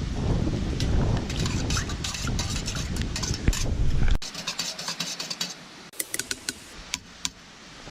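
Drink powder being mixed into cold water: a quick run of rattling clicks and clinks from the container, then a few sharper clinks near the end. Wind rumble on the microphone cuts off abruptly about four seconds in.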